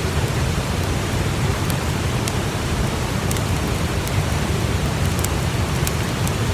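Steady rushing noise with a few sharp crackles of a newly lit campfire scattered through it, more of them near the end.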